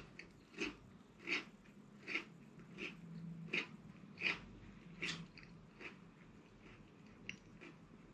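A chocolate-coated TeeVee Snacks malt stick biscuit being chewed, with a crunch about every three-quarters of a second for some six seconds, then two fainter crunches near the end.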